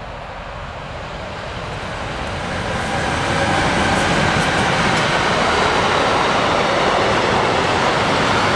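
Freight train, two electric locomotives pulling a long string of wagons, running past on the track, getting louder over the first three seconds as it comes close and then a steady rush of wheels and wagons.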